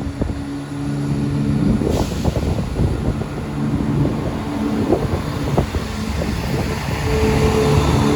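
Turbostar diesel multiple unit pulling out, its engines running with a steady hum that grows louder near the end. Short knocks from the wheels come now and then.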